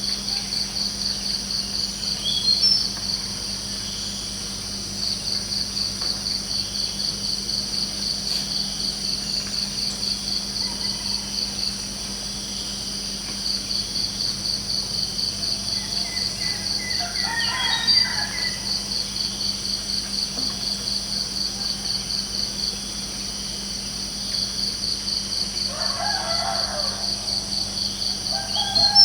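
Crickets chirping in a continuous rapid pulsing trill that stops briefly three times. A rooster crows twice, about halfway through and again near the end, over a steady low hum.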